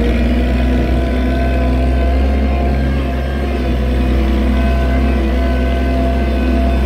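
Oliver 770 farm tractor's engine running steadily at working speed.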